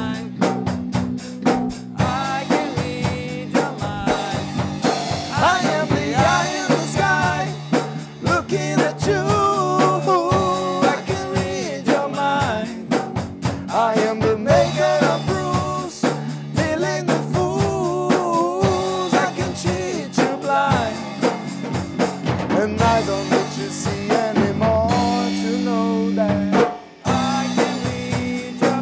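Rock band playing an instrumental passage without vocals: a drum kit keeping a steady beat under a wavering lead melody, with a brief break near the end.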